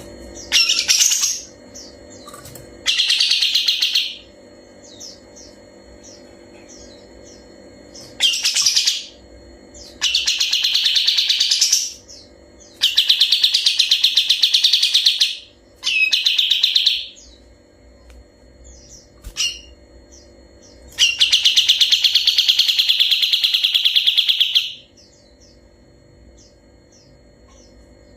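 A kapas tembak songbird singing long, clear, rapid trills. They come in repeated loud bursts of one to nearly four seconds, the longest a little past two-thirds of the way through, with short faint chirps in between.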